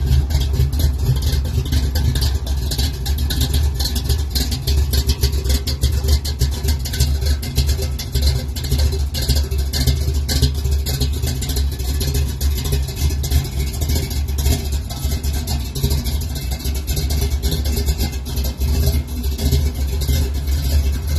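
Rebuilt 383 V8 engine of a 1969 Chevy C10 pickup running steadily, a loud low exhaust note with a fast, even pulse.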